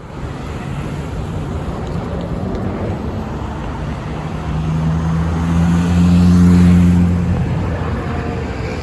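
Road traffic noise with a motor vehicle's engine hum swelling as it passes close, loudest about six to seven seconds in.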